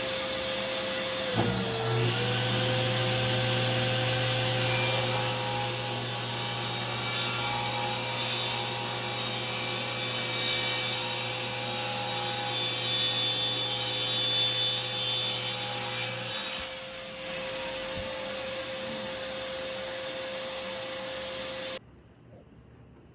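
DeWalt thickness planer planing a black walnut board. The motor's pitch dips as the board enters, about a second and a half in, and it cuts steadily for about fifteen seconds. It then runs free, and cuts off suddenly near the end when it is switched off.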